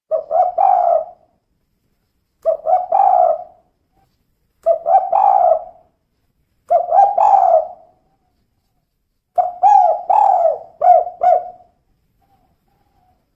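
Female spotted dove (tekukur) cooing in the 'kuk 2' style: five short phrases of quick notes about two seconds apart, the last one longer with more notes.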